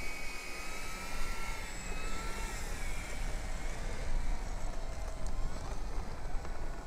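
Electric brushless motor and propeller of an E-flite Turbo Timber Evolution RC plane whining while taxiing, its pitch wavering up and down with the throttle, over a steady low wind rumble.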